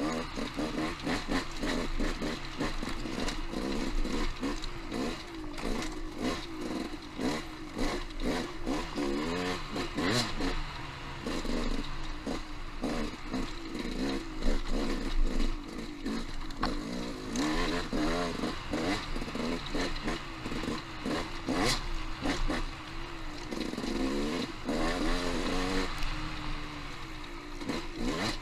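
Off-road motorcycle engine being ridden on singletrack, its revs rising and falling constantly with throttle changes, mixed with frequent knocks and clatter from the bike.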